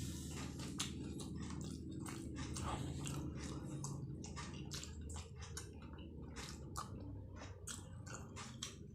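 A person chewing martabak telur close to the microphone: a quick run of wet mouth clicks and smacks as the fried egg-filled pastry is eaten.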